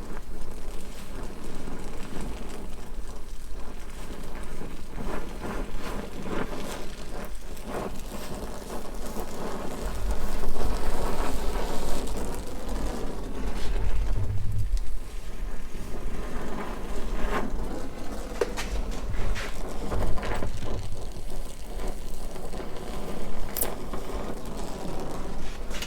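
Oxy-acetylene torch flame hissing and crackling steadily while working on a metal tube, with a few sharp metal clicks in the second half.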